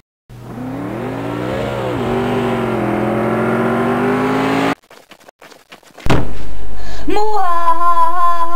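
Car engine sound revving: the pitch rises, drops back, then climbs steadily as it gets louder. It cuts off, and a few seconds later a much louder held, wavering tone begins.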